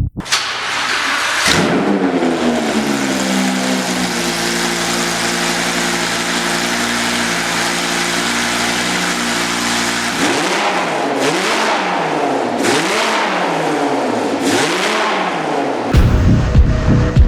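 Lamborghini Huracán's twin-turbo 5.2-litre V10 starting up, flaring briefly and settling to a steady idle, then revved and released about four times.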